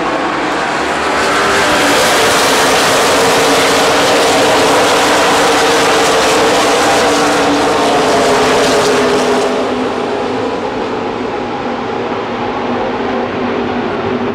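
A pack of NASCAR Nationwide Series stock cars with V8 engines running at speed past the stands. It swells about a second in, stays loud with the engine pitch shifting as cars go by, and eases off after about nine and a half seconds.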